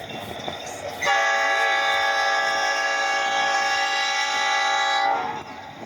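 Diesel locomotive air horn blowing one long chord of several notes, starting about a second in and lasting about four seconds before cutting off.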